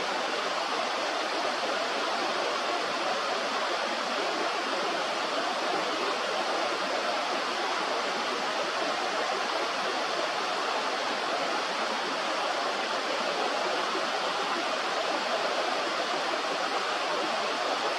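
Fast-flowing river water rushing steadily, an even noise that does not change.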